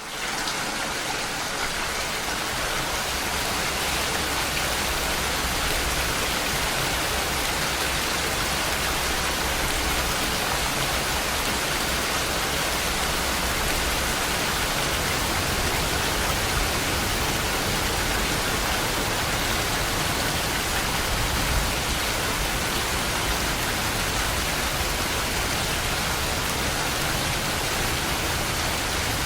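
Steady rain falling, an even hiss of many drops with no changes in level.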